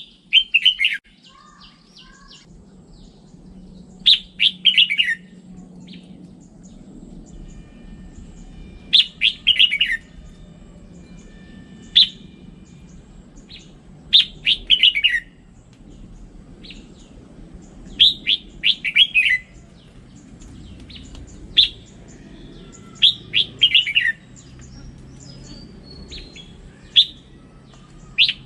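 Red-whiskered bulbul singing: short, quick phrases of a few bright notes, repeated every three to five seconds, over a faint steady low hum.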